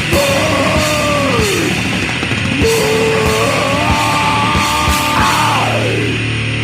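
Swedish crust punk band playing a raw demo recording: distorted guitar and drums with cymbal hits. Over them, a held high line wavers and bends, then slides down near the end.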